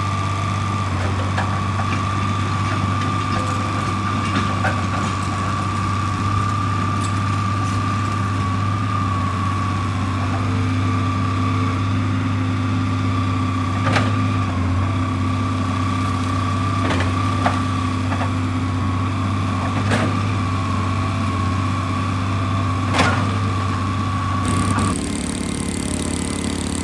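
Heavy machinery engine running steadily with a constant high whine over a low hum, with a few sharp knocks in the second half. Near the end the whine cuts off and the sound changes abruptly.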